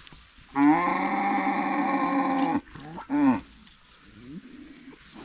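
Cow mooing: one long, loud call of about two seconds, then a short second call that falls in pitch.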